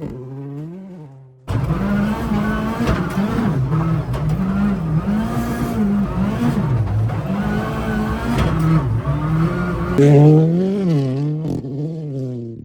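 Ford Fiesta ST rally car engine revving up and falling back again and again as it is driven hard through the gears. The sound is broken by abrupt cuts, about a second and a half in and again near the end.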